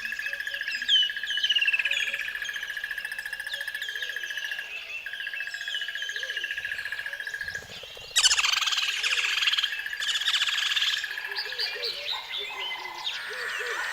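Several birds chirping, with short downward-sliding calls, over a steady high-pitched trill. About eight seconds in, a louder, harsher sound drowns the calls for about three seconds.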